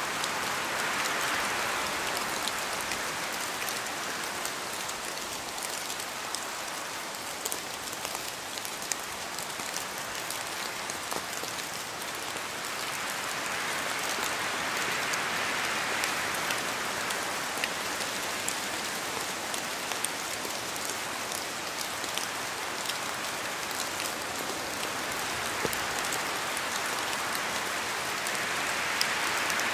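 Steady rain falling, many drops pattering on a surface, the hiss swelling and easing gently every dozen or so seconds.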